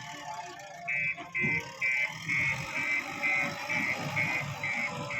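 Reversing alarm beeping steadily about twice a second, starting about a second in, over a heavy machine's engine running.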